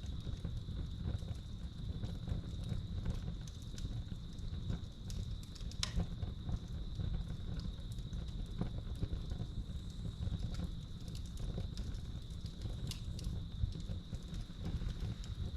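Wood fire crackling in a fireplace, with scattered small pops and one sharper pop about six seconds in, over a low rumble. Crickets give a steady high trill underneath.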